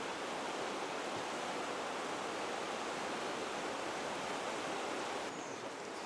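Steady rushing of a running stream. The tone shifts slightly near the end, and a brief high chirp comes just before the end.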